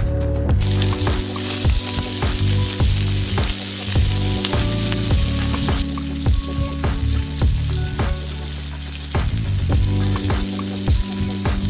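Food frying in a pan, a steady sizzle that starts about half a second in and eases off about halfway through, over background music.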